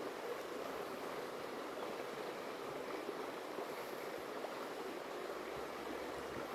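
Stream water flowing and rippling over rocks: a steady, even rush.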